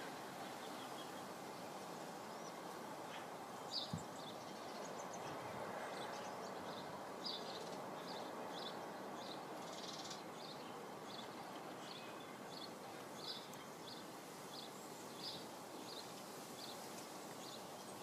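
Faint outdoor garden background with a small bird repeating a short, high call about once or twice a second, starting about four seconds in.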